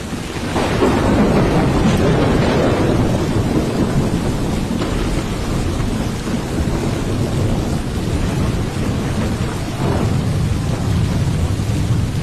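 Heavy rain pouring down in a storm, with a deep, steady rumble underneath and a louder swell about a second in.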